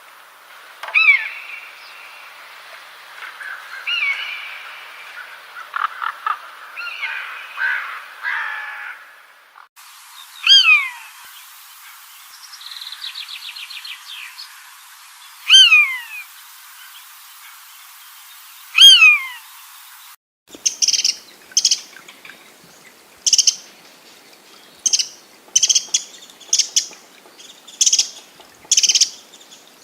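Calls of several different birds, in three abruptly spliced recordings. First comes a jumble of chirps and calls over a light hiss. Then loud single down-slurred whistles every three seconds or so, with a brief rapid trill between them, and finally a run of short high chirps, about one or two a second.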